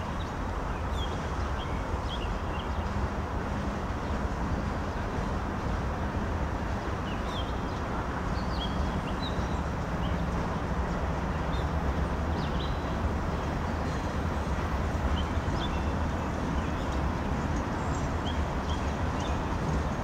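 Freight train of tank cars rolling across a steel girder bridge: a steady rumble of wheels on rail joints. Short bird chirps sound now and then over it.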